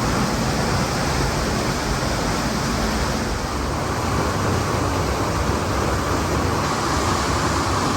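Steady rush of river water and a waterfall, a continuous even roar with no breaks.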